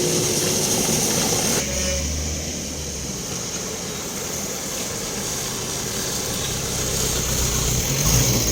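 Motor vehicle driving on a ghat road: steady engine and road noise, the high hiss dropping off about a second and a half in and building again near the end.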